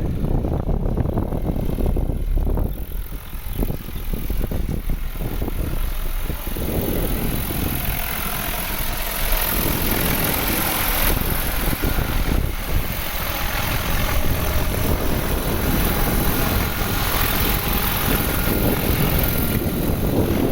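Crop-spraying helicopter running steadily with engine and rotor noise during a fertilizer-spraying pass; the sound grows brighter in its upper range about a third of the way in.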